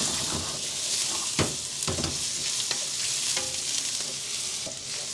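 Chopped garlic, onion and ginger sizzling in hot chicken oil in a stainless steel wok, stirred with a wooden spatula that knocks and scrapes against the pan a few times.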